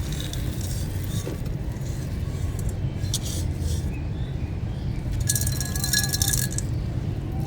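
Dry, stony-textured chunks being crumbled and crushed, crunching with hard clinking bits; the crunching is loudest in a burst past the middle.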